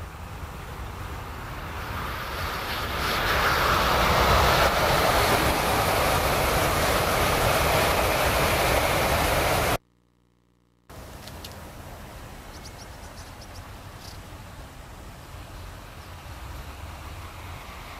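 Tokaido Shinkansen train passing: a steady rushing noise that builds over the first few seconds and stays loud. It cuts out abruptly about ten seconds in for about a second, and a much quieter steady rush follows.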